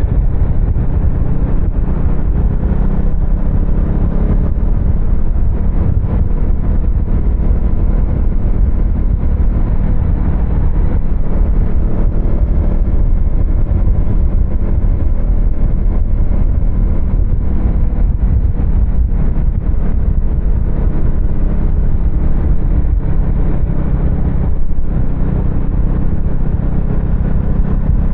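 Husqvarna Svartpilen 250's single-cylinder engine running loudly, its revs rising and falling. There is a brief drop in sound about three and a half seconds before the end.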